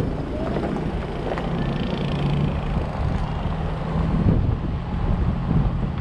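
Vehicle engine running steadily with low road rumble and wind buffeting the microphone while driving.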